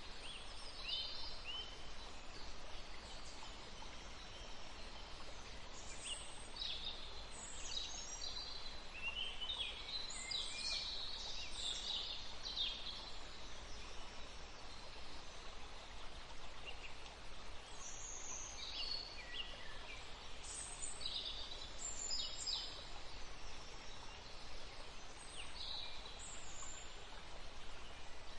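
Forest songbirds calling, with many short, high chirps and trills from several birds, busiest about a third of the way in and again past the middle, over a faint steady background hiss.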